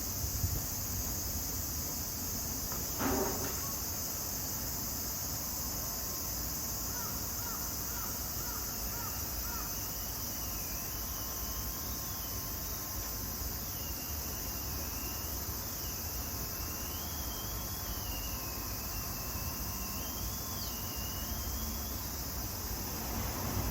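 Steady high-pitched chirring of insects, with a short knock about three seconds in and a faint wavering whistle-like tone through the middle.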